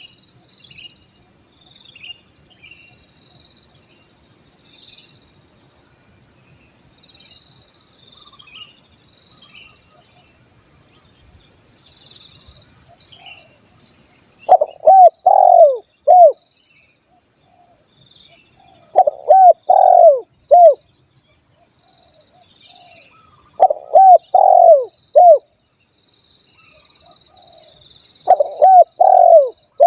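Spotted dove (tekukur) cooing: four loud phrases of three or four low, falling coo notes, about every four to five seconds, starting about halfway through. Before that there are only faint high chirps of other birds over a steady high insect buzz.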